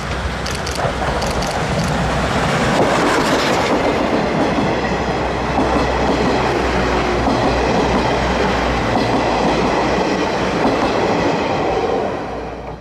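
The SL Ginga train, C58 239 steam locomotive with KiHa 141 series cars, rolling past with its wheels clacking over the rail joints. The noise swells about two seconds in, holds steady, then drops and cuts off suddenly at the end.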